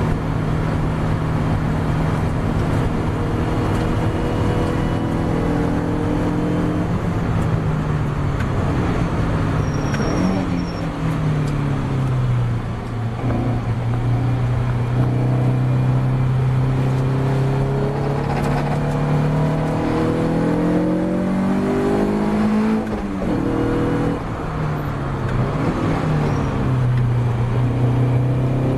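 Ginetta G40 race car engine running hard, its pitch climbing and falling again and again through the gears. There is a long drop in pitch about a third of the way in as it slows, then more rises and falls later on.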